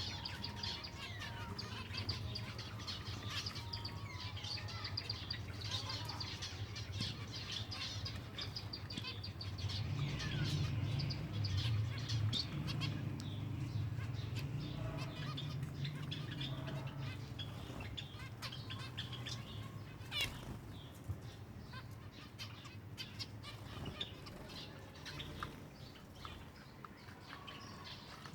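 A flock of silver Java sparrows chirping and fluttering, with many short, high chirps throughout. A low hum runs underneath, louder for a few seconds about a third of the way in.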